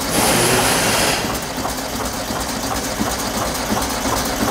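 VW Beetle 1303's air-cooled flat-four engine running unevenly with one spark plug removed and its lead pulled, so that cylinder does not fire and the engine puffs through the open plug hole. A loud hiss rides over the engine for about the first second.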